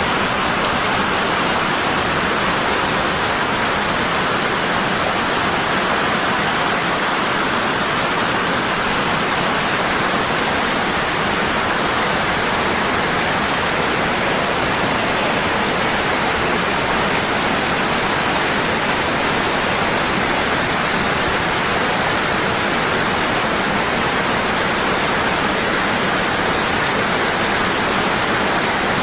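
Waterfall: water falling strongly and constantly, a steady even rush.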